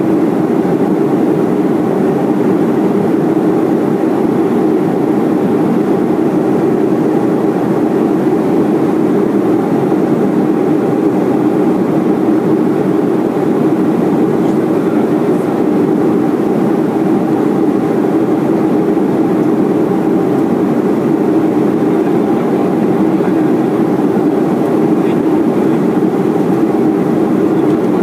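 Steady cabin noise of a Boeing 737-400 in flight on descent: an even rumble of its turbofan engines and the airflow, heard from inside the cabin.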